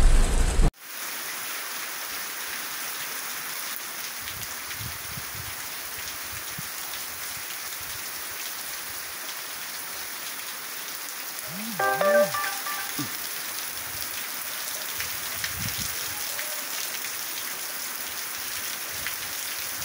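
Heavy rain falling in a steady downpour, an even hiss. A louder sound at the very start cuts off abruptly in under a second. About twelve seconds in, a short voice-like call sounds briefly over the rain.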